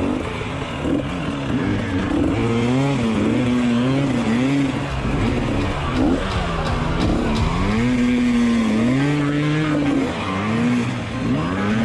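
Motocross bike's engine revving up and down over and over as it is ridden, its pitch climbing and dropping every second or so.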